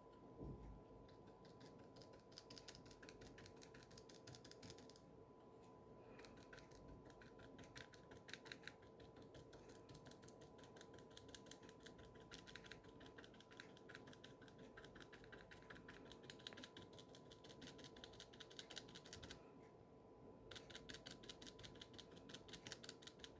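A dry, stiff bristle brush flicked and dabbed rapidly onto paper, laying down spruce branches in thick gouache. It makes faint, quick tapping in runs of several seconds with brief pauses, over a faint steady hum.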